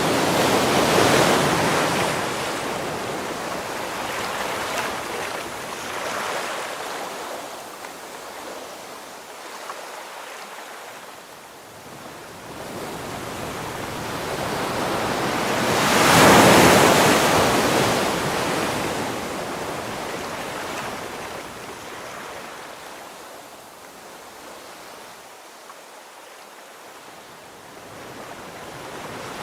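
Ocean waves breaking on the shore: two wave crashes, about a second in and about sixteen seconds in, each swelling and then washing back into a fainter hiss.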